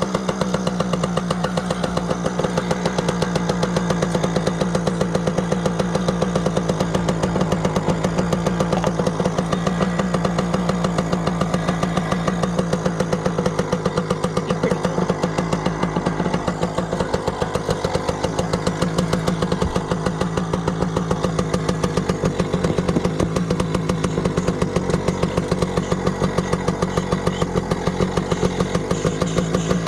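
Yamaha PW80's two-stroke single-cylinder engine idling steadily as it warms up, just after a first-kick start following a long time unused.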